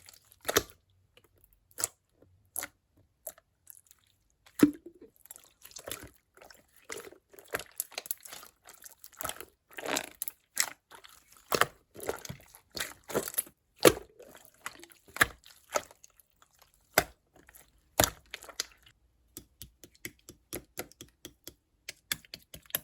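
Clear slime being squeezed and poked by hand, giving irregular wet pops and crisp clicks as air pockets burst. Near the end the clicks come lighter and quicker.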